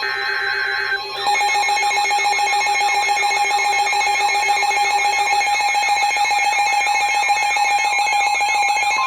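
Electronic weather-alert tone: a short burst of steady beeping tones, then about a second in a fast warbling pitch sweeping up and down over a steady tone.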